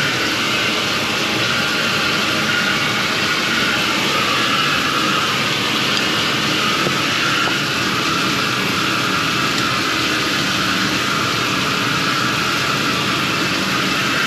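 Bathtub and sink taps running at full flow, a steady rush of water, to test whether the cleared drain line backs up.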